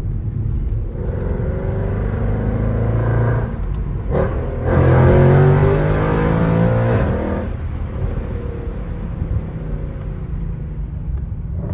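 Mercedes C63 AMG's 6.2-litre naturally aspirated V8 accelerating, its pitch rising in two pulls. The second pull, about five seconds in, is the loudest, and the engine then eases off to a steadier run.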